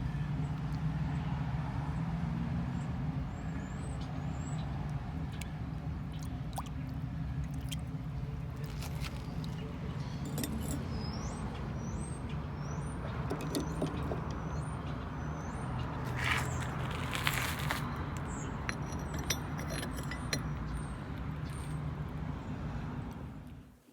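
A steady low mechanical drone, like a motor or blower running, with scattered clicks and a few faint high chirps over it; it cuts off just before the end.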